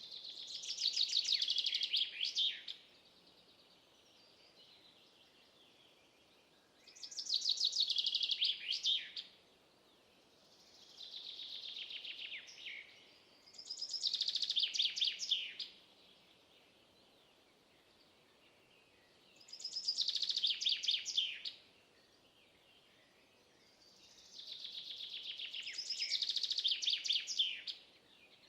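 A songbird singing the same rapid, high-pitched trilled phrase over and over, six times, each phrase lasting two to three seconds with a few seconds of pause between.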